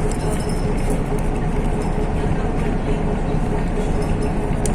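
MAZ-103 city bus driving, heard inside the cabin: a steady engine and road drone with a faint steady whine and a few light rattles.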